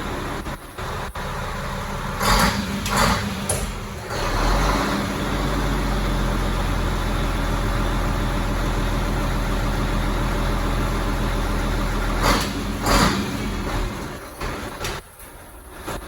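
Mack Cruiseliner cabover truck's diesel engine running, getting louder for several seconds in the middle, then easing off near the end. Two pairs of short, sharp rushes of noise cut in over it, a few seconds in and again about twelve seconds in.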